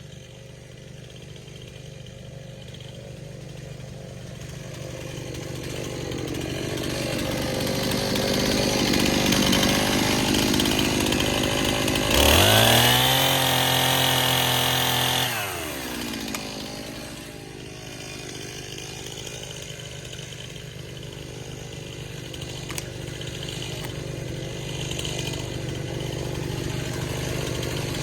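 Two-stroke chainsaw running. About twelve seconds in it revs sharply to full throttle, holds for about three seconds, then drops back down, over a steady low engine hum.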